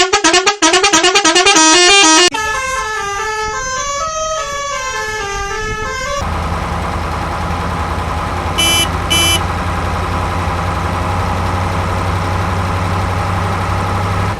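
Electronic musical horn playing a quick melody of beeping notes. About six seconds in it gives way to a steady low engine-like hum, with two short beeps partway through.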